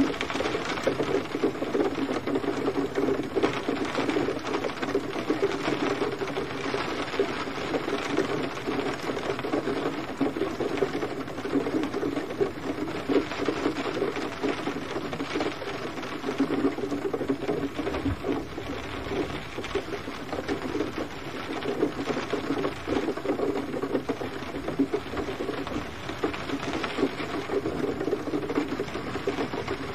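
Steady gentle rain, a dense pattering of drops on a surface.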